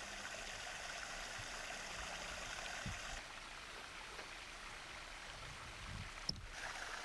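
Creek water running steadily, an even rushing hiss, with one short click about six seconds in.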